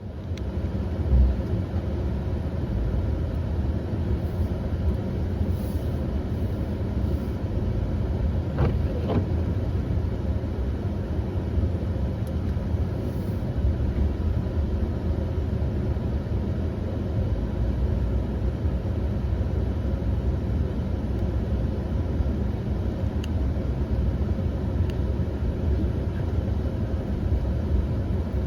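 Steady low motor-vehicle rumble of an engine running. It comes in abruptly, with a brief louder knock about a second in.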